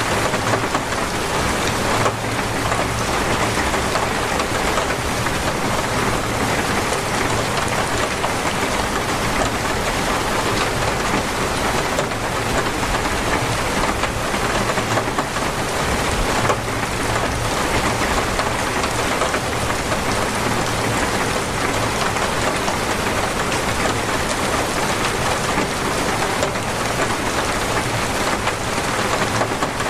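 Heavy, torrential rain falling steadily, with a faint low rumble underneath.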